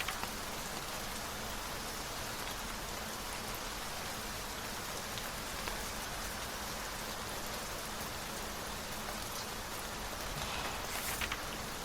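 Steady rain falling as an even wash of noise, with a brief rustle near the end.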